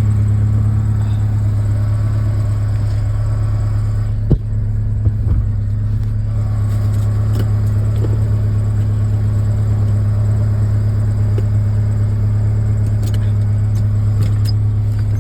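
Ford Ranger engine idling steadily, with a low, even drone through its new exhaust tip. There is a sharp click about four seconds in.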